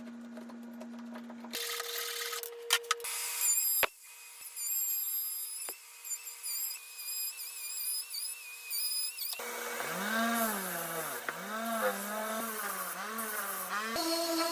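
Power tools working wood in a series of short separate takes, each a steady motor hum at a different pitch. In the last few seconds the motor's pitch dips and recovers again and again as it bogs under load in the cut.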